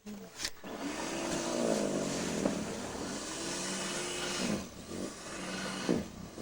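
Small snow blower's petrol engine running, its pitch sagging and rising as it works through the snow, then settling to a steadier drone.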